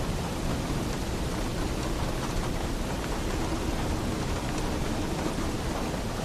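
Heavy rain falling steadily on a roof: a dense, even hiss with a deep low rumble underneath.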